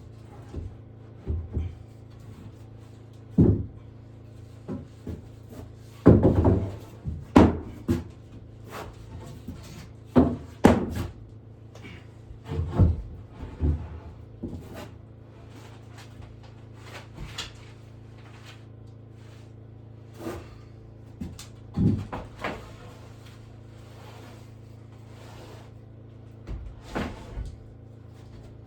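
Irregular wooden knocks, clunks and thuds from boards and lumber being handled and set down, some in quick clusters, over a steady low hum.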